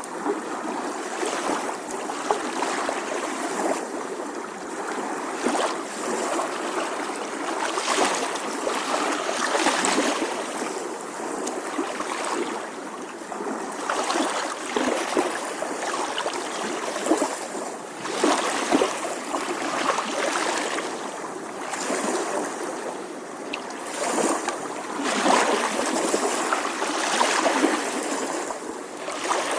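Small ocean waves lapping on a shore, a steady wash of water that swells and eases every couple of seconds.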